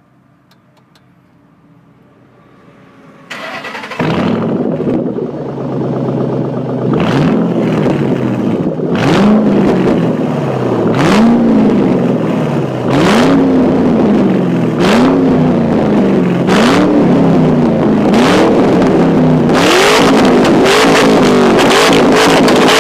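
2007 Ford Mustang GT's 4.6-litre V8 with its mufflers deleted, started about three to four seconds in. It idles briefly, then is revved in repeated short throttle blips about every two seconds, coming quicker near the end.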